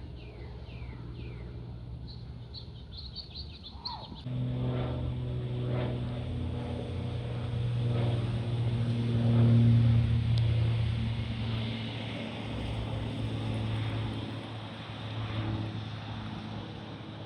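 Birds chirping, then a steady low engine drone that starts suddenly about four seconds in, swells to its loudest around the middle and fades near the end.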